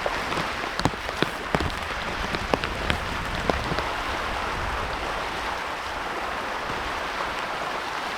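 Rain starting up again, falling steadily, with scattered individual drops tapping sharply in the first few seconds before it settles into an even patter.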